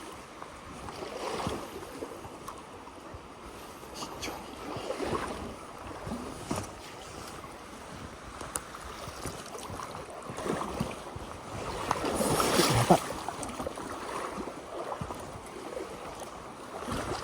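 Small mountain stream running with a steady rush of water, with occasional sudden sharp sounds and a louder surge of noise about twelve to thirteen seconds in.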